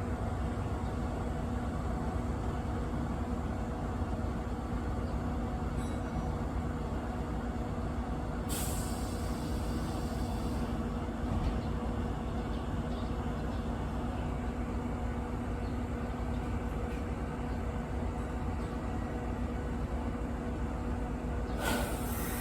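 Kintetsu electric train with a steady low rumble and hum, with a hiss of compressed air about eight seconds in that lasts about two seconds, and another hiss starting near the end.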